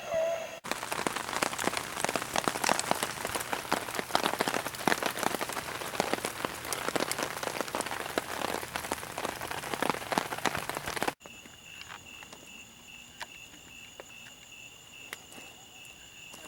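Heavy rain falling, a dense patter of drops hitting a surface, which cuts off suddenly after about ten seconds. A much quieter outdoor scene follows, with a steady high-pitched insect trill and a few faint drips.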